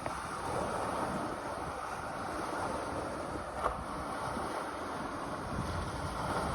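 Strong wind buffeting the microphone over choppy sea water, a steady rushing noise with a fluctuating low rumble. A brief click just past halfway through.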